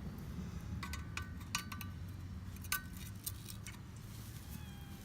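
Light metal clinks and taps, about six over a few seconds, each with a brief ring, as metal tools and parts are handled at the workbench. A steady low hum runs underneath, and near the end comes a faint cat meow.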